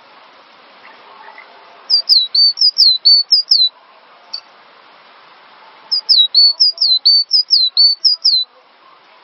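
Cinereous tit (gelatik batu) singing: two quick runs of repeated high, down-slurred whistled notes, each lasting about two seconds, over a steady background hiss.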